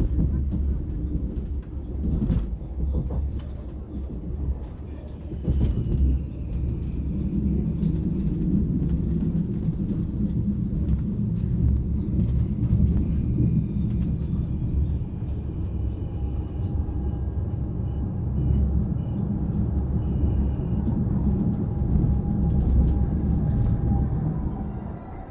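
Steady low rumble of a vehicle in motion, with scattered clicks and faint high squeals over it; it starts abruptly and eases off near the end.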